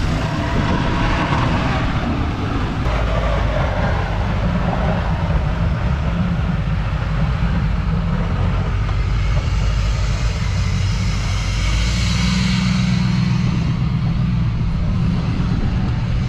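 Plow truck's engine running steadily with a low rumble while it plows snow, growing briefly fuller around twelve seconds in.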